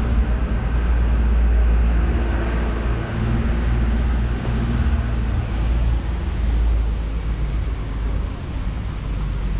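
Street traffic: motor vehicle engines running nearby, a heavy low rumble with a steady engine hum that eases off somewhat toward the end, over a thin steady high whine.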